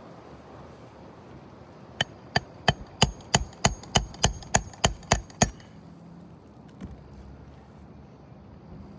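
A 16-ounce claw hammer driving roofing nails through a shingle into the roof deck: about a dozen sharp strikes, roughly three a second, starting about two seconds in and stopping a few seconds later.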